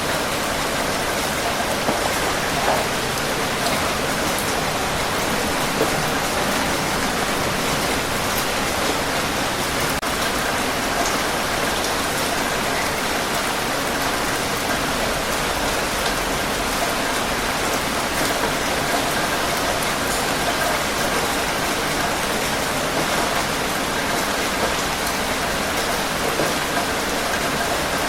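Steady rain falling, an even dense hiss with scattered drop ticks.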